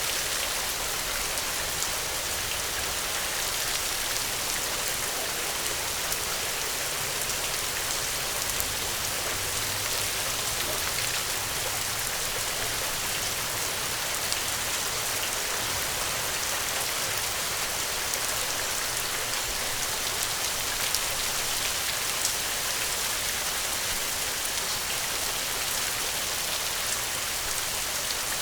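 Steady rainfall, with drops pattering on a surface.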